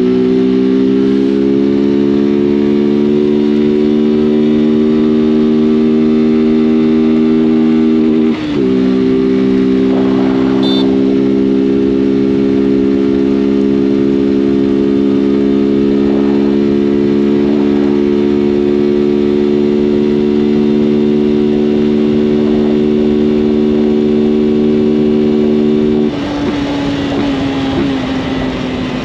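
Honda CG 160 Fan's single-cylinder four-stroke engine under way at a steady high rev, its note holding steady, with a quick gear change about eight seconds in. Near the end the note falls away and gets quieter as the throttle closes.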